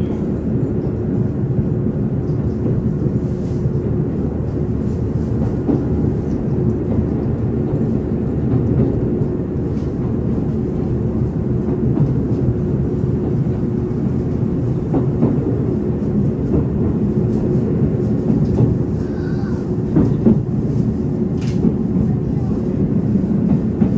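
Izuhakone Railway 5000 series electric train heard from inside the car while running between stations: steady running noise with a constant hum, and a few knocks from the wheels on the track.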